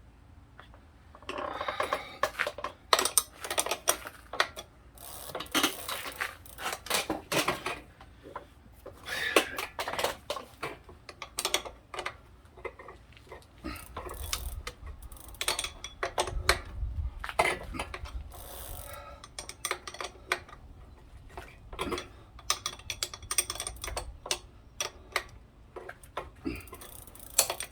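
Metal hand tools clinking and clanking in irregular clusters of sharp clicks and knocks, with short pauses between them.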